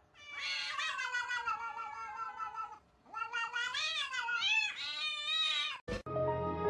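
A cat yowling: two long, drawn-out calls, the second wavering up and down in pitch, cut off by a click and then music near the end.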